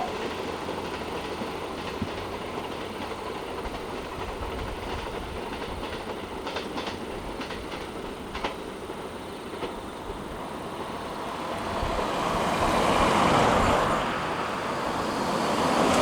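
Twilight Express Mizukaze 87-series train running on the track, wheels clicking over the rail joints, the noise swelling louder over the last few seconds.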